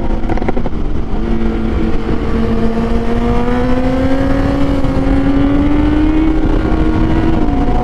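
Kawasaki Z800 motorcycle's inline-four engine pulling hard under throttle, its note climbing steadily in pitch, then dropping about seven and a half seconds in as the revs fall, with heavy wind rush on the rider's microphone.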